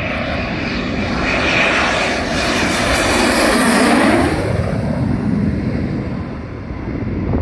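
A Panavia Tornado ECR jet's twin RB199 turbofans roaring as it passes. The roar swells to its loudest about four seconds in, the pitch sweeps as it goes by, and then it fades.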